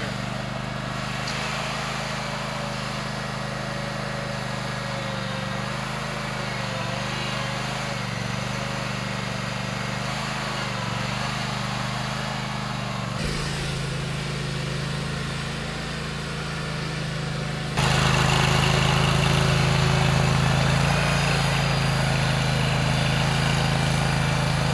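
Rented stump grinder's small gasoline engine running steadily. Its sound shifts about halfway through and gets clearly louder about three-quarters of the way in.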